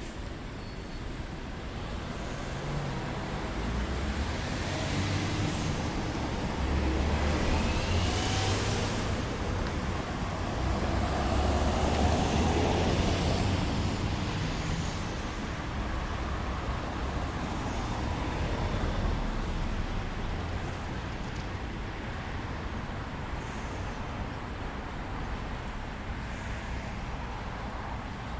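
Road traffic: vehicles passing with a low rumble that swells a few seconds in, peaks near the middle, then eases back.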